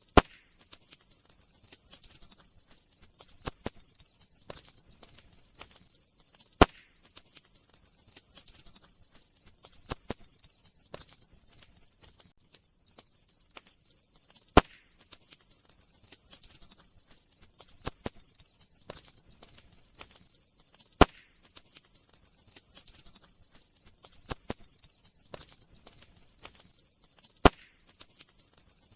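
Campfire crackling: scattered small crackles with a sharp, loud pop every few seconds, over a faint steady hiss.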